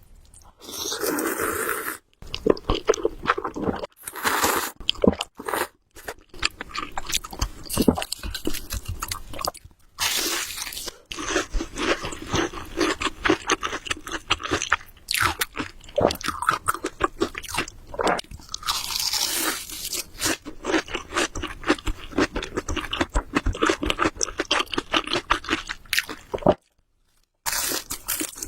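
Close-miked eating of Samyang Buldak carbonara instant noodles: chewing with dense wet mouth clicks, broken by a few longer slurps. It drops to silence for under a second near the end.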